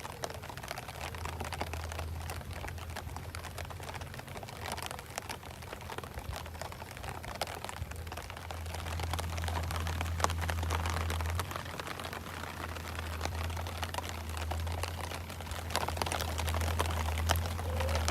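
Rain falling on a fishing umbrella, a dense run of small irregular ticks on the canopy over a steady low hum.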